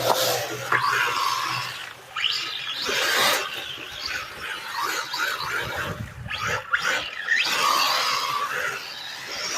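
1/12 scale electric RC rally car on a 3S battery, its motor and drivetrain whining up and down in pitch several times as it accelerates and backs off. Under the whine is a rushing noise of tyres and wind.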